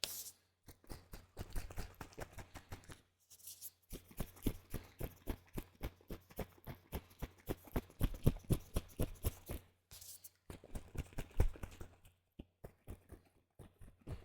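Rapid clicks and taps close to the microphone from handling a plastic spray bottle, in runs of a few seconds broken by short pauses.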